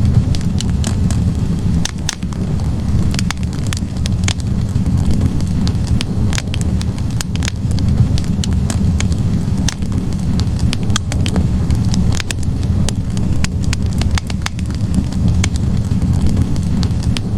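Wood fire burning in a fireplace: a steady low rumble of flames with frequent sharp crackles and pops from the burning logs, scattered irregularly.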